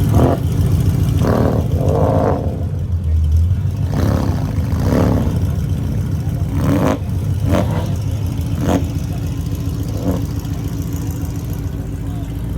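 Ford Mustang GT's Coyote 5.0 V8 idling through its exhaust with a low steady rumble, blipped with a series of short throttle revs every second or two.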